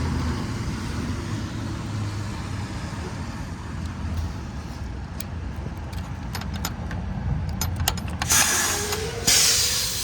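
Diesel semi-truck engine idling steadily, with some scattered clicks and two short bursts of hiss near the end.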